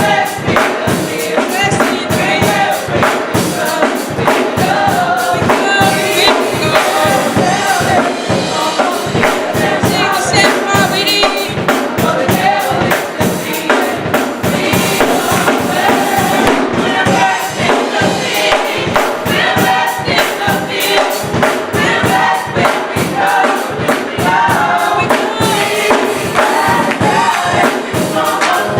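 Gospel song: a choir singing together over a band with a steady beat.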